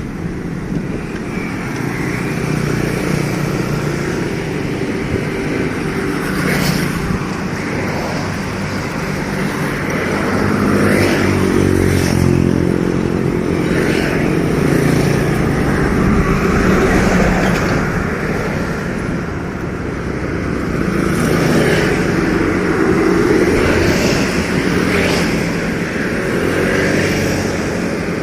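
Motorcycle engines running past, their note swelling and fading as they come and go, with a few sharp knocks.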